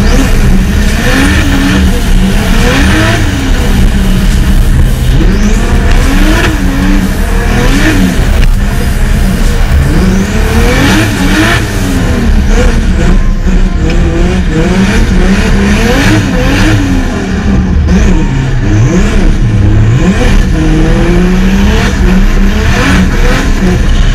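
Drift car's engine revving hard and dropping back over and over as the car slides, with tyre noise beneath, heard from a camera mounted on the car's body.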